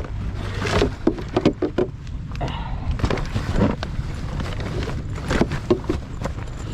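Rustling and a quick series of clicks and knocks as wet gear and a disc lock are handled and sorted, over a steady low rumble.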